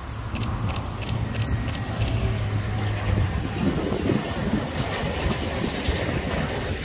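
Yamaman Yukarigaoka Line rubber-tyred people-mover train passing close on its elevated concrete guideway. A steady low hum as it approaches gives way, a few seconds in, to the louder rumble of the cars going by.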